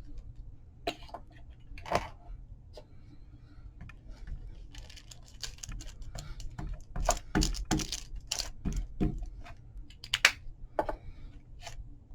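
Irregular light taps and clicks of hand-held craft tools on paper and a desk, busiest in the middle, with one sharper tap near the end.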